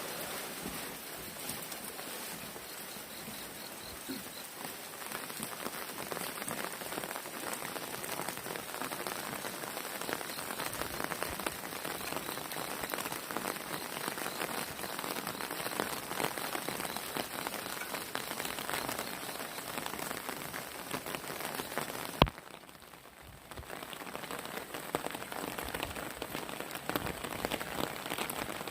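Heavy rain falling steadily and pattering on surfaces. About three-quarters of the way through there is a single sharp click, the loudest moment, after which the rain sounds quieter for a second or two before building again.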